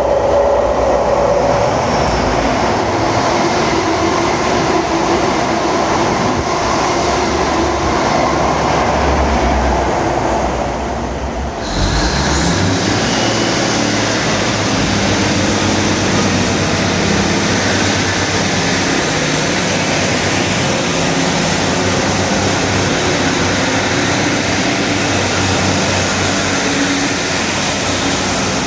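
A train running past close by, loud and continuous. About twelve seconds in, the sound changes abruptly to a broader rushing noise.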